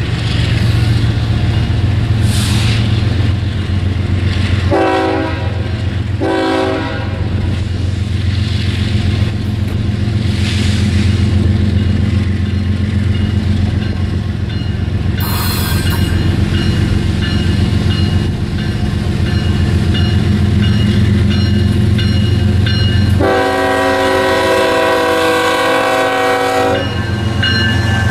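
BNSF diesel freight locomotives approaching and passing close by, their engines running with a steady low rumble. The locomotive horn sounds two short blasts about five and six seconds in, then one long blast near the end as the locomotives reach the crossing.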